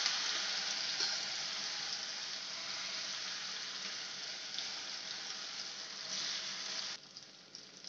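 Freshly added grated raw mango sizzling in hot oil in a heavy iron kadai: a loud, dense hiss that slowly eases and drops away sharply about seven seconds in.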